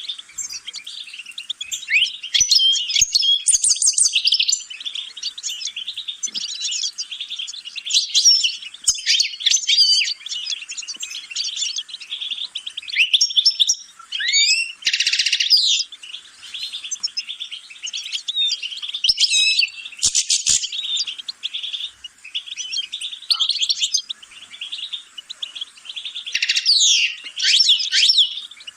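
Songbird singing a long, continuous twittering song of quick rising and falling notes, trills and high chirps, with brief pauses.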